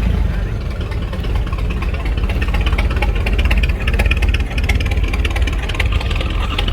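Antique car engine running at low speed as the car drives slowly past, with a fast, even patter.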